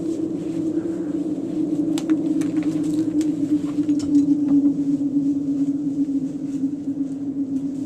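Hamilton Beach electric blade coffee grinder's motor running with a steady hum, its pitch sagging slightly, and a few faint ticks over it.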